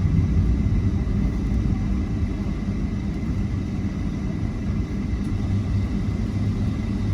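Steady low rumble inside an airliner cabin as the jet taxis, its engines at taxi power, with a faint steady high whine.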